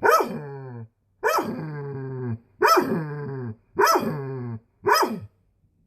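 A dog making five drawn-out vocal calls in a row, each starting high and sliding down in pitch, with short pauses between them.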